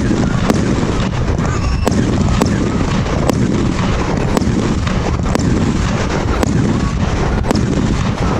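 A 100-shot 1.3G compound cake firework firing: sharp cracks about once a second over a constant loud rumble.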